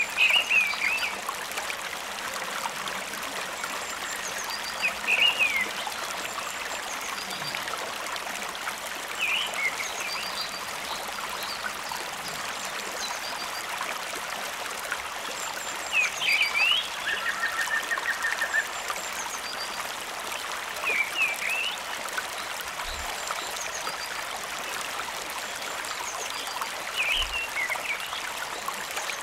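Steady running water of a forest stream, with short chirping animal calls recurring every five seconds or so and a brief trill about two-thirds of the way through.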